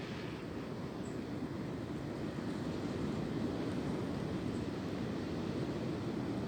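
Wind blowing through swaying tree branches, a steady rushing with its weight low, swelling a little around the middle.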